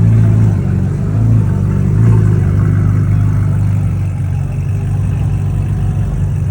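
A car engine running at low revs, swelling briefly a few times in the first couple of seconds.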